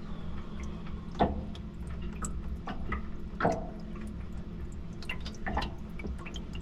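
Liquid dripping: a handful of single drops, each a short plink, the loudest about every two seconds, over a steady low hum.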